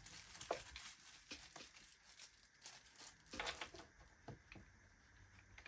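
Faint handling sounds of a small bag of inflator fittings: rustling, with scattered light clicks as the small fittings are moved, the loudest rustle about three and a half seconds in.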